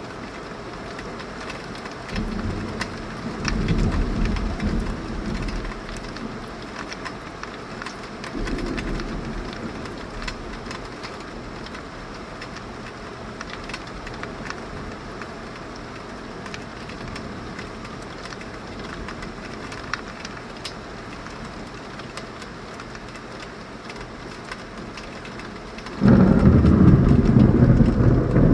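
Heavy tropical rain falling steadily, with thunder rumbling low a few seconds in and again briefly a few seconds later. Near the end a much louder clap of thunder starts suddenly.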